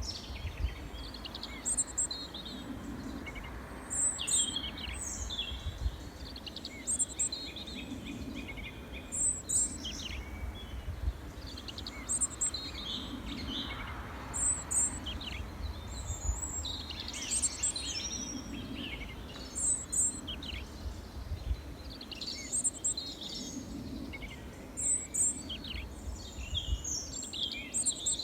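Small songbirds chirping and trilling continuously, many short, high calls overlapping, over a steady low rumble of background noise.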